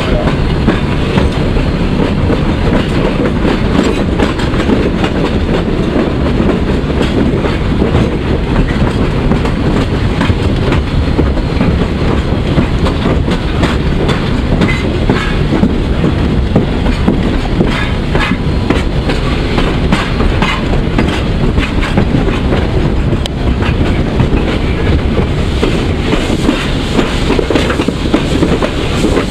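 PKP Ol49 steam locomotive under way, heard from the footplate: a loud, constant rumble with the rapid clickety-clack and clatter of wheels over rail joints.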